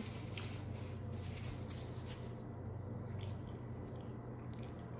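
Close-miked chewing of a mouthful of food, with wet mouth noises that are dense for the first two seconds and then thin to a few scattered clicks.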